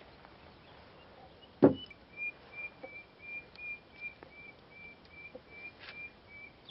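A sharp knock about one and a half seconds in, then a bird repeating one short high note, about three times a second, for some four seconds.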